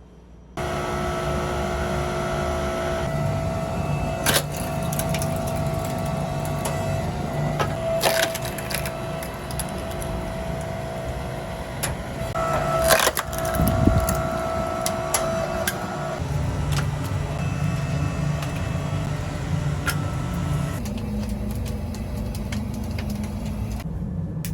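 A machine's motor running steadily with a low rumble and a steady hum, broken by a few sharp clanks.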